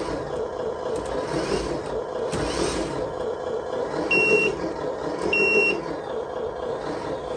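Lesu RC truck sound module playing a simulated truck engine running steadily through its small speaker. Two short hisses come in the first three seconds, and two reversing beeps sound about a second apart past the middle.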